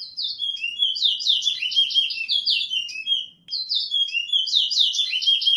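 Towa-towa (large-billed seed finch) singing its competition song: two rapid, warbling phrases of quick descending notes, with a short pause between them about halfway through. In a towa-towa race, each full phrase like this is a song that gets counted.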